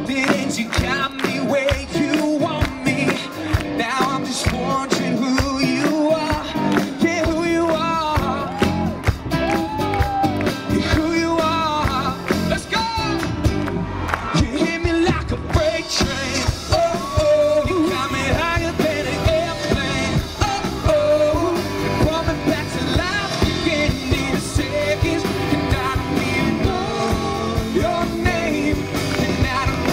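Live rock band performing a song, with a man singing lead over the band.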